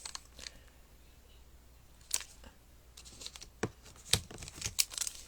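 A few sharp, separate clicks and light crinkles from handling Pokémon booster packs and cards, starting about two seconds in after a quiet stretch.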